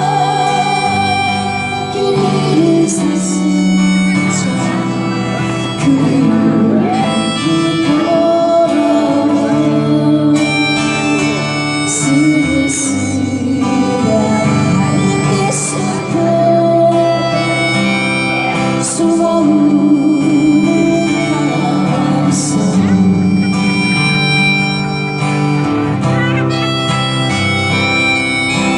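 Acoustic folk music with guitar and harmonica, playing without a break.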